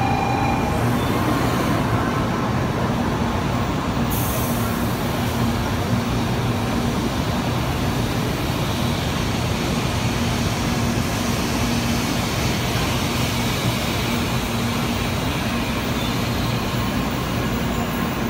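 N700-series Shinkansen train rolling along the platform past the camera: a steady rumble and rushing of wheels on rail with a low hum. A high hiss joins about four seconds in.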